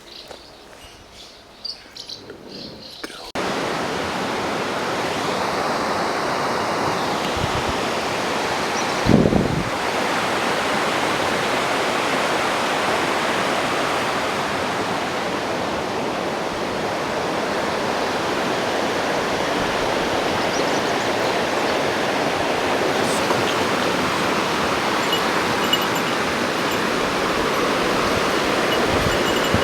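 Light clicks over quiet outdoor ambience, then, about three seconds in, an abrupt switch to the loud, steady rush of a waterfall or fast mountain stream. There is one brief low thump about nine seconds in.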